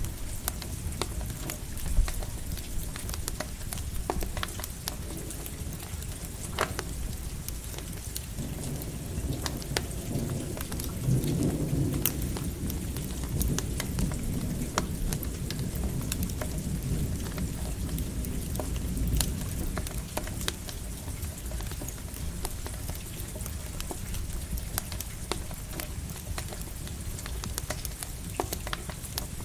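Steady rain with a crackling campfire's scattered sharp pops, and a low rumble of distant thunder that swells about eight seconds in, peaks a few seconds later and slowly fades.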